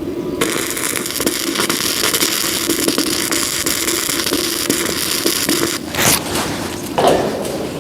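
Electric arc welding crackling and sizzling steadily, with a short break just after the start. The arc cuts off about three-quarters of the way through, and a couple of short knocks follow.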